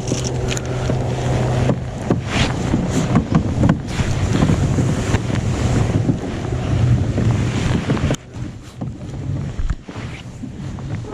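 Wind buffeting the microphone, with water against the kayak. The wind eases about eight seconds in.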